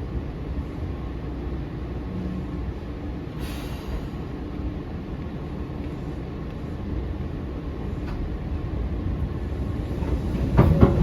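Eizan Electric Railway 900 series 'Kirara' electric train running, heard from inside the car: a steady low rumble of wheels on rails, growing louder near the end with sharp clicks.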